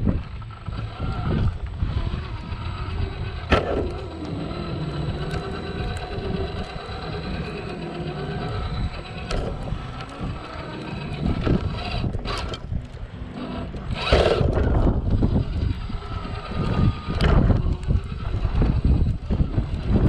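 Electric motor and gearbox of a Traxxas TRX-4 RC crawler whining, rising and falling in pitch as the throttle changes. Several sharp knocks as it works over rocks.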